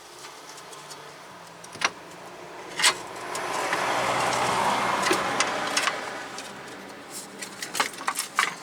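A passing vehicle's road noise swells and fades over about three seconds. A few sharp metallic clinks come before it and cluster near the end as a wheel hub bearing is handled and set in place.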